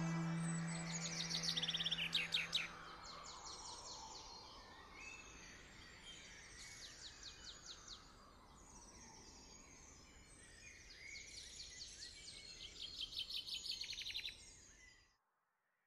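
Birds singing in quick high chirps and trills, loudest in two bursts near the start and near the end, over a faint hiss; the last held note of the music dies away in the first few seconds, and it all cuts off suddenly near the end.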